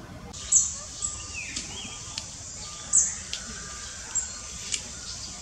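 Birds calling: a short, high-pitched chirp every two to three seconds, with a few lower falling notes in between over a steady background hiss.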